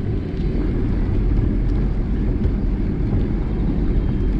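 Wind buffeting the microphone of a moving bicycle rider: a steady low rumble.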